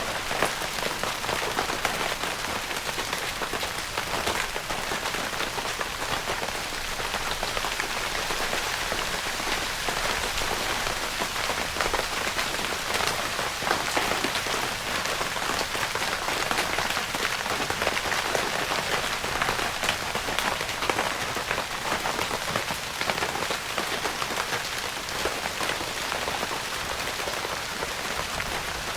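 Steady rain pattering on a tent's fabric roof, a dense even patter of countless small drop hits.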